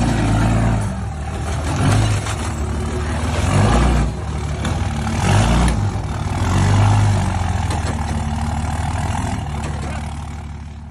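Truck engine running loudly, rising and falling in several swells about every one and a half to two seconds.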